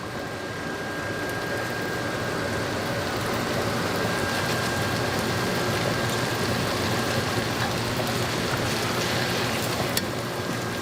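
Onions and peppers frying in a pan, a steady sizzle that grows a little louder over the first few seconds. A single sharp click comes near the end.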